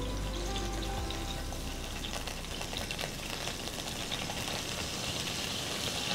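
Small whole brinjals (eggplants), slit open, frying in hot sesame oil: a steady sizzle with fine crackling that grows louder as more brinjals go into the pan.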